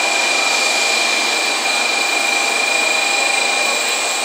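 N700 series Shinkansen train pulling into the platform: a steady rushing noise of the cars sliding past, with a steady high whine in it.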